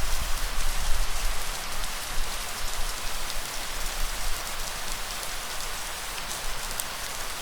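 Light rain falling steadily, an even hiss of drops with scattered faint ticks. Under it is a low, uneven rumble that is strongest in the first couple of seconds.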